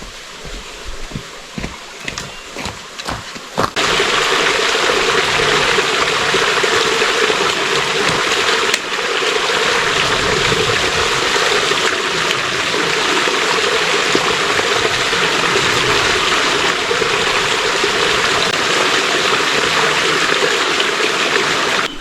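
Footsteps on a trail for the first few seconds, then a sudden switch to a small stream running with a steady, loud rush of water.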